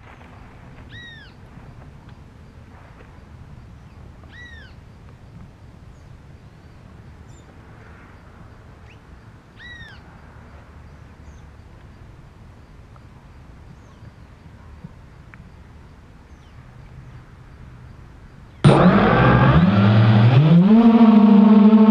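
A bird gives a short arching call three times over faint outdoor background noise. Near the end, the 1806 2280kv brushless motors of a 250-size FPV racing quadcopter start suddenly, spin up rising in pitch, then hold a steady loud tone.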